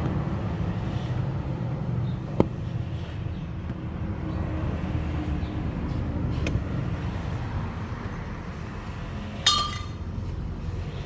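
2008 Hyundai Starex van engine running steadily with a low rumble. Two sharp ticks cut through it, and near the end comes a brief ringing metallic clink.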